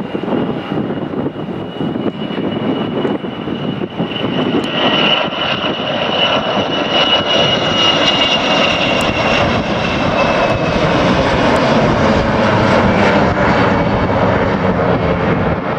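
Bombardier Global Express business jet departing, its two Rolls-Royce BR710 turbofans giving a steady jet rumble with a high whine. The sound grows louder over the first several seconds, then holds, and the whine fades in the second half.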